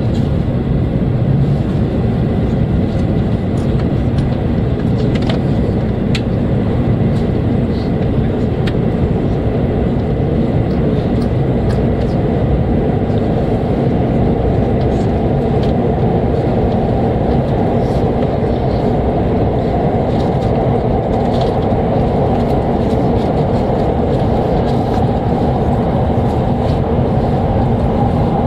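Steady low rumble of a Hokuriku Shinkansen train heard from inside the passenger cabin as it gathers speed leaving the station. The noise grows a little brighter in the second half.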